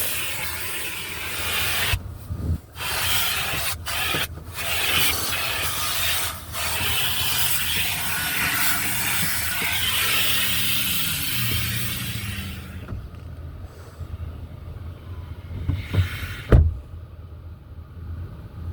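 Car wash machinery giving a loud, steady rushing noise with brief breaks, which dies away about two-thirds of the way in; a single thump comes near the end.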